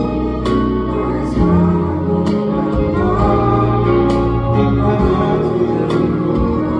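A song sung over instrumental accompaniment, the voice carrying a melody that glides up and down.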